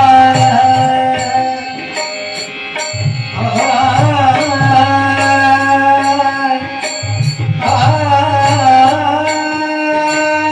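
Marathi devotional bhajan music: tabla keeping a steady beat, bright clinks on the beat, and a held melody under a singing voice that starts new phrases a few seconds in and again about two-thirds of the way through.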